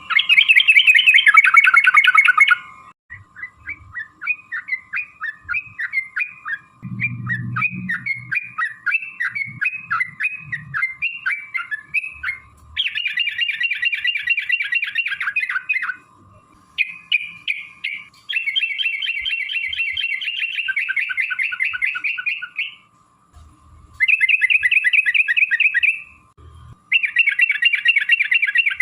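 Yellow-vented bulbul (trucukan) singing. It starts with a string of quick, separate falling notes, then moves into long rapid rolling chatters ('ropel') in bursts of two to four seconds with short pauses between them.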